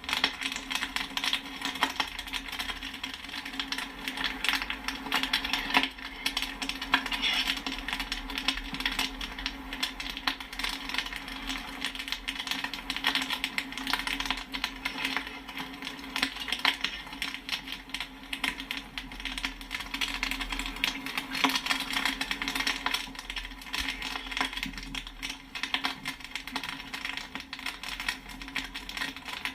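Popcorn kernels popping in rapid, dense succession, sharp pops and pings like kernels striking a metal pot or popper, over a steady low hum.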